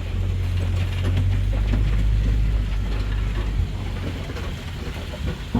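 Safari ride vehicle rumbling low and rattling as it drives along the track; the low rumble eases off a little over halfway through, leaving the rattles.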